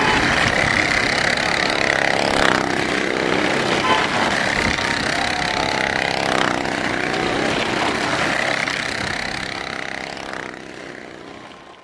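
Car engine held at high revs as a car circles the vertical wooden wall of a well-of-death ring. The sound is steady, then fades away near the end.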